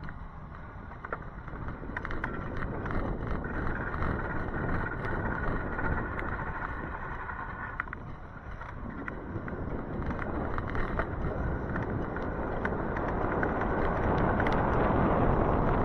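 Wind rush and wet-road noise from a moving e-bike in the rain: a steady rushing with scattered small ticks, growing louder through the second half.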